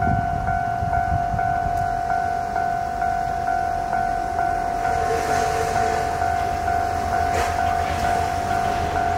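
Kanto Railway Kiha 2400 series diesel railcar approaching, its engine a low rumble under a steady electronic ringing that pulses about two and a half times a second, as from a Japanese level-crossing warning bell.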